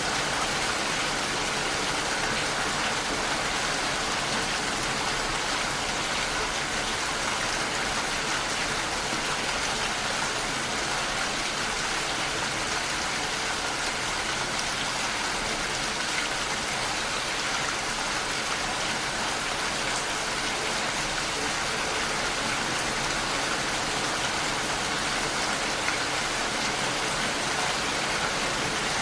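Rain falling steadily against a window, an even, unbroken hiss of drops.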